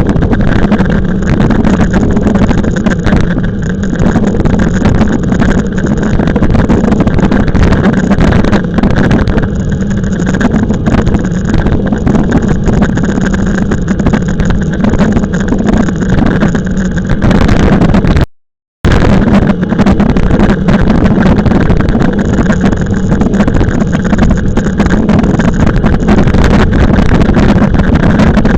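Loud, steady wind buffeting on the microphone and ride rumble from a moving e-bike, with a constant low hum. It cuts out completely for about half a second roughly two-thirds of the way through.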